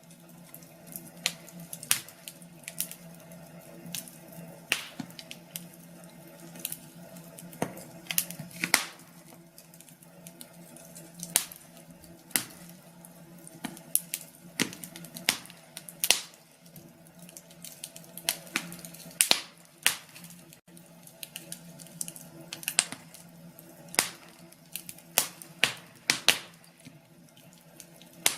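Wood fire in a fireplace crackling: irregular sharp pops and snaps, about one or two a second and varying in strength, over a faint steady hum.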